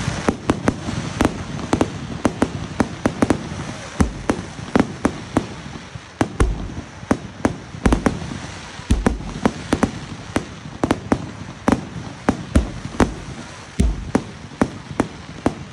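A fireworks display: a rapid barrage of bangs, several a second, over a continuous crackling hiss, with a few deeper booms from larger shells among them.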